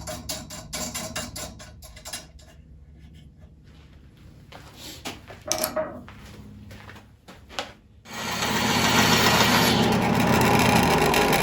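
Light clicking and rattling of parts being fitted, then a few knocks. About eight seconds in, a Craftsman 12-inch bandsaw is running and cutting wood, a loud, even rasping noise that eases slightly near the end.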